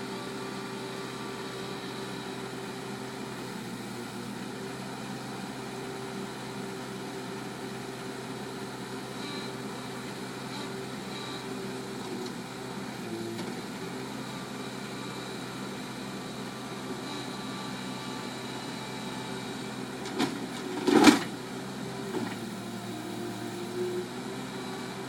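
Bulldozer's diesel engine running steadily. About twenty seconds in come two sharp clanks close together, the second the loudest sound here, followed by a couple of lighter knocks.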